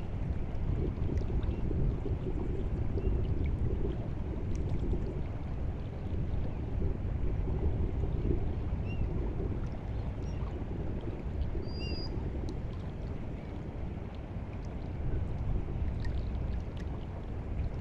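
Seawater lapping and gurgling at the shore on an incoming tide: a steady low wash with small splashing clicks. A few faint, short, high chirps come through now and then.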